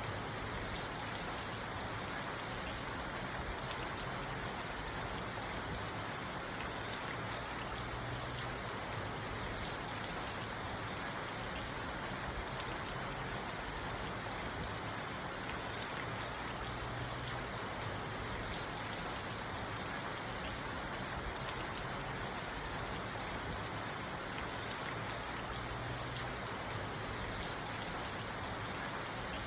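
Steady rain falling on a parked car, heard from inside the cabin: an even hiss of rain with many fine drop ticks on the roof and glass.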